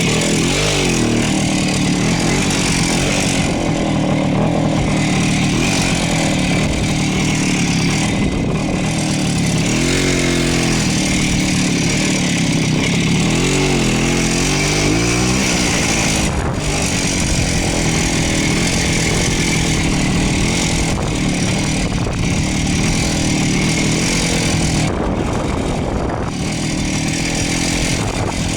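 Voskhod motorcycle's 175 cc two-stroke single-cylinder engine running steadily while riding; its note rises and falls a few times about halfway through as the revs change.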